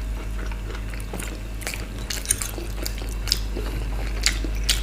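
Close-miked chewing: scattered wet mouth smacks and clicks as food is bitten and chewed.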